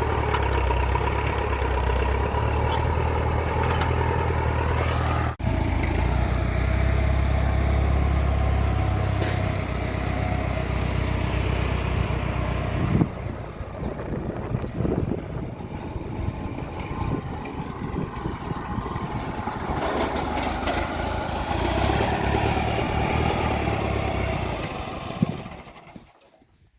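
Massey Ferguson 590 tractor's four-cylinder diesel engine running with a steady rumble. About halfway through it drops to a quieter, more uneven sound with a sharp knock, then fades out near the end.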